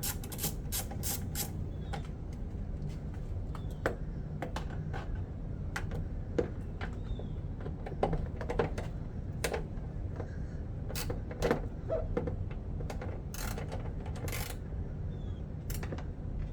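Hand socket ratchet clicking in a quick run as headlight-assembly screws are worked, followed by scattered clicks and knocks of tool and part handling over a steady low hum.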